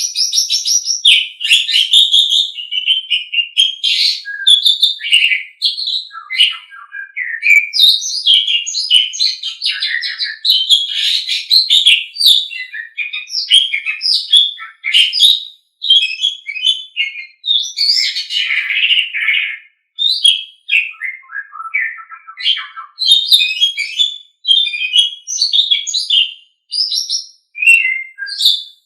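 Asian pied starling (jalak suren) singing a long, varied song: a fast run of high-pitched whistles, chatters and squeaky notes, broken only by short pauses.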